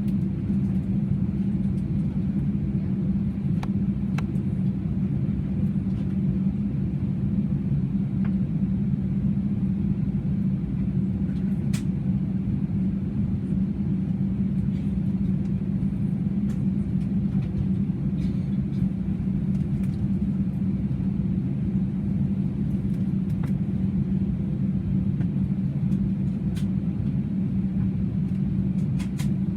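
Steady drone inside an Airbus A320 passenger cabin, a low rumble with a strong hum, with a few faint clicks scattered through it.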